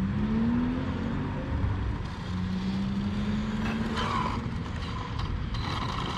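A motor vehicle's engine rising in pitch as it accelerates. About two seconds in, a steadier engine tone follows.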